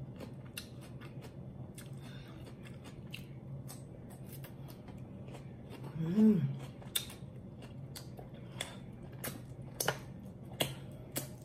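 Close-miked chewing with wet mouth clicks and lip smacks, the clicks sharpest and most frequent in the second half, and a short hummed "mm" about six seconds in.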